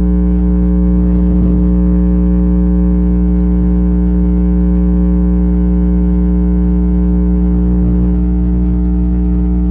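Loud, steady electrical hum and buzz picked up by an earbud's built-in microphone, holding one pitch with a row of overtones and never changing. It is the fault behind the recording's terrible sound quality.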